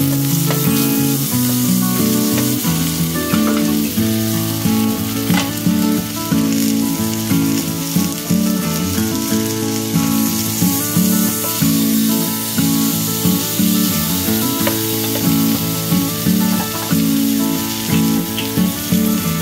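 Potato wedges sizzling as they fry in melted butter in a pan, turned now and then with a wooden spatula, under background music.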